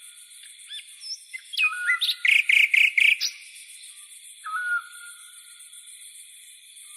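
Songbirds singing: one bird repeats a short whistled phrase every few seconds, and about two seconds in a louder run of rapid chirps lasts roughly a second. A steady, fast-pulsing insect buzz runs beneath.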